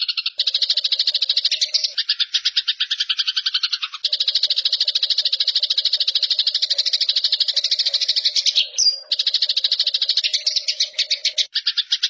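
Eurasian tree sparrow giving the rapid, dry chattering trill of a fighting bird, in long runs broken by short pauses about half a second in, at about four seconds and near nine seconds.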